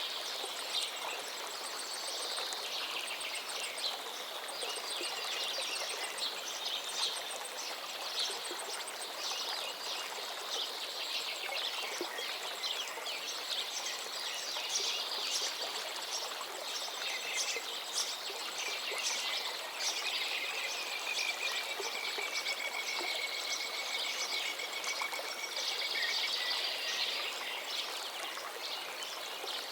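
Several songbirds singing continuously over the steady rush of a flowing river, with one long, even trill a little past the middle.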